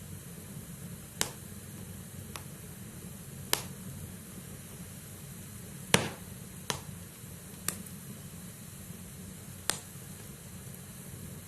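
Logs burning in a fireplace with a low steady rumble of the flames and sharp crackles and pops of the firewood, about seven in all, the loudest about six seconds in.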